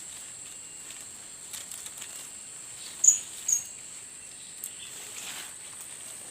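Two short, high chirps of blue-crowned hanging parrots (serindit), half a second apart, over a steady high insect whine.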